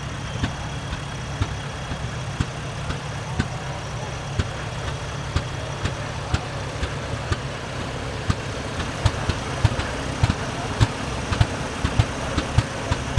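Antique tractor engine running with a low rumble and sharp exhaust pops about once a second, which quicken to roughly three a second after about eight seconds.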